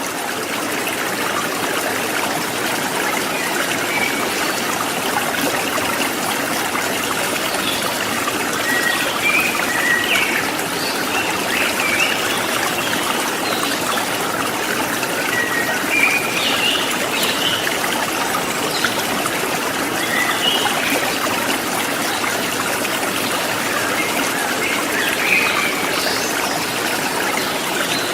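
Stream water running over rocks, a steady rushing and trickling, with a few short high chirps now and then.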